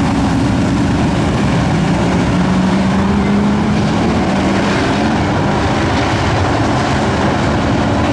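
Dirt-track race trucks' engines running hard at speed, a loud, steady engine drone with one engine note held strongest a few seconds in.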